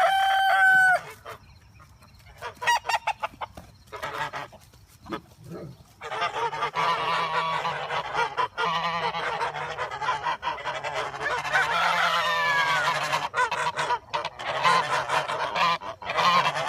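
Geese honking: a few scattered calls at first, then from about six seconds in a loud chorus of many overlapping honks. A loud, steady held tone opens the first second.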